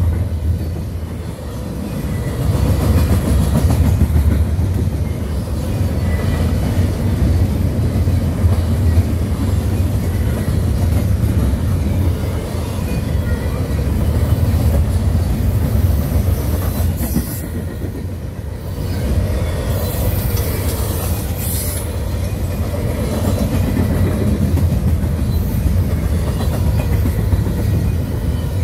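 Double-stack intermodal freight train's loaded well cars rolling past: a steady, loud low rumble of steel wheels on the rails.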